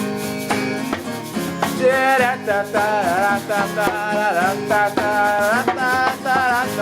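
Acoustic guitar strumming chords, joined about two seconds in by a wavering wordless vocal melody carried over the chords.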